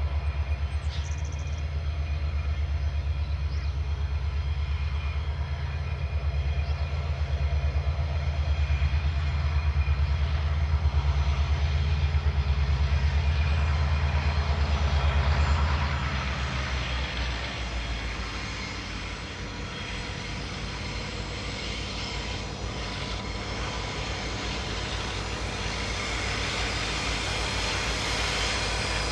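Aurizon ballast train running past: a loud, low, pulsing drone from the locomotives for about the first half. The drone then drops away, and a quieter, noisier rumble from the train goes on.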